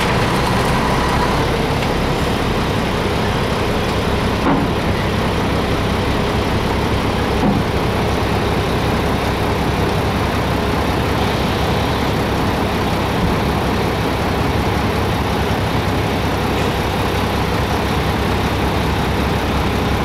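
Diesel engine of a 2005 Mack tri-axle dump truck idling steadily.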